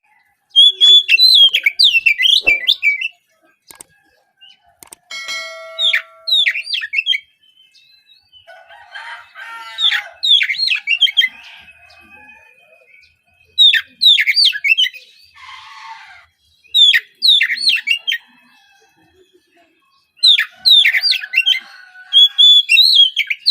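Oriental magpie-robin singing in bursts of loud, fast, sharply sweeping whistled notes, each phrase lasting one to three seconds with short pauses between, mixed with a few harsh rasping notes.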